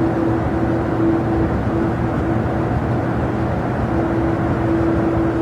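Jet airliner engines running, a steady rushing noise with a constant low hum and a held tone.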